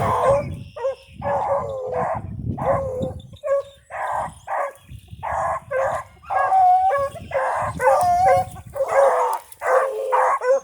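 A pack of rabbit dogs baying as they run a rabbit on its scent trail: quick repeated barks from several dogs, with a few longer drawn-out bawls in the middle.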